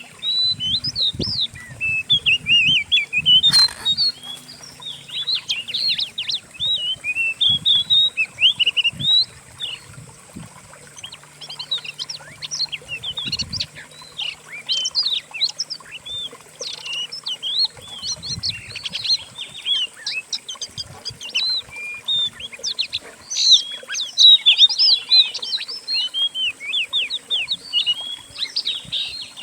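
Dense songbird song: many rapid, overlapping chirps, whistles and trills from a compiled mix of several songbirds' songs, made as a training recording for oriental magpie-robins to copy. A short burst of noise cuts through about three and a half seconds in.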